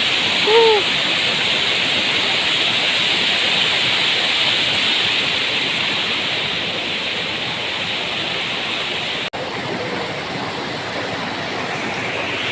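Waterfall rushing steadily, a dense even roar of falling water. About half a second in, a short high call cuts through it.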